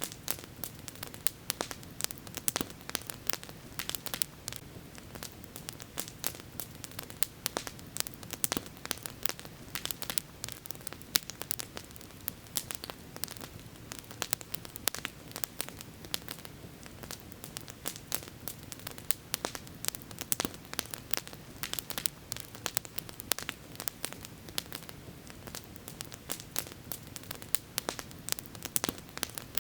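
Campfire crackling: dense, irregular sharp pops and snaps from burning wood over a steady low rush of flame.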